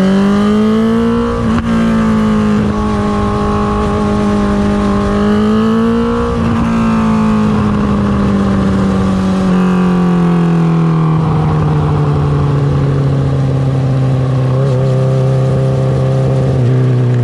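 2019 Honda CB650R's inline-four engine through an Akrapovic Racing Line titanium exhaust, running under way. Its pitch rises a little twice, falls gradually about halfway through, and holds lower until a slight drop near the end.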